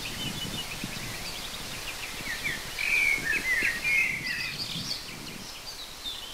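Small songbirds chirping and trilling over a faint outdoor hiss, with the loudest run of quick chirps about halfway through.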